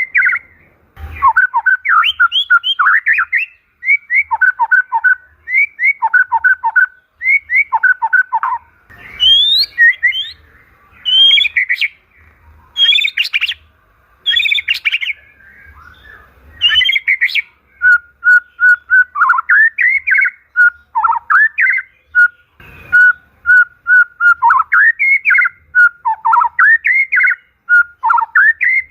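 White-rumped shama singing in full song: loud, varied whistled phrases of quick notes in short bursts, with brief pauses between them.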